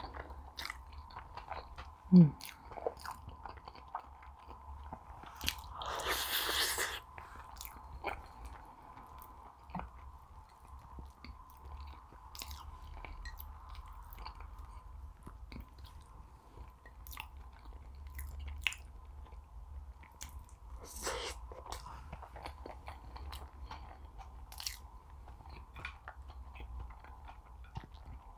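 Close-miked eating sounds: a person chewing, with many small wet mouth clicks. About two seconds in there is one sharp, loud sound with a short falling squeak, and around six seconds in a longer hiss lasting about a second, with a shorter one later. A faint steady hum lies underneath.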